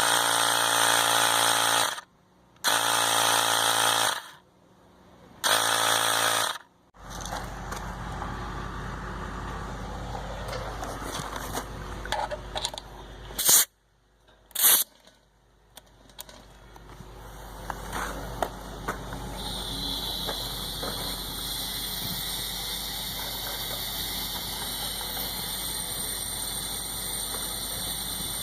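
A small electric air pump runs three times with short stops, inflating an air bladder test plug in a drain line for a pressure test. After that there is scattered work noise with two sharp knocks, then a steady hiss that a higher hiss joins partway through.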